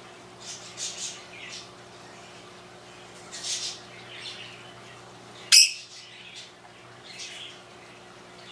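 A bird chirping and squawking in short calls every second or so, over a steady low hum from the aquarium equipment. One brief, sharp, loud sound comes about five and a half seconds in.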